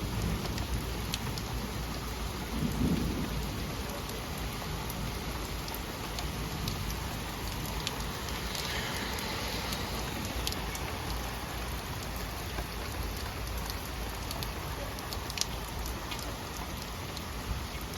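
Heavy rain falling steadily, with scattered sharp drop ticks and a low roll of thunder about three seconds in.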